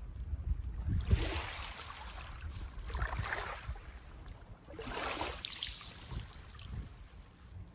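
Small waves washing up a sandy beach, three washes about two seconds apart, each a rising and fading hiss, over a low rumble of wind on the microphone.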